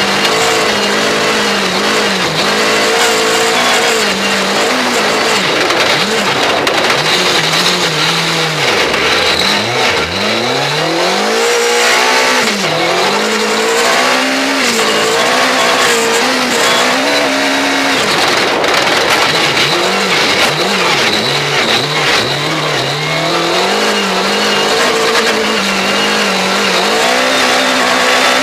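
Mugen-powered Honda Civic Type R R3 rally car's four-cylinder engine driven hard, revs repeatedly climbing and falling through gear changes and lifts, with a deep drop about nine seconds in before it pulls steeply back up. Constant tyre and wind noise on the front-bumper microphone.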